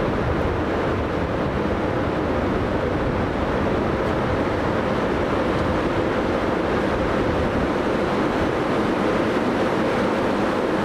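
Steady rumble of a train rolling past on the rails, even and unbroken.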